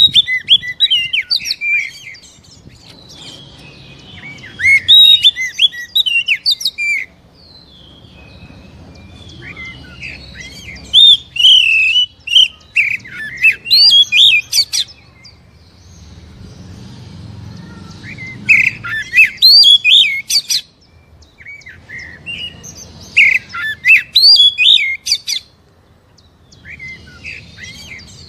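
Oriental magpie-robin (kacer) singing in repeated bursts of rapid, varied whistles and chirps, each burst a few seconds long with short pauses between. It is a lure song meant to provoke a captive magpie-robin into singing.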